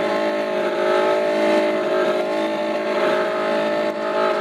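Speedboat engine running steadily at speed, its note wavering slightly up and down.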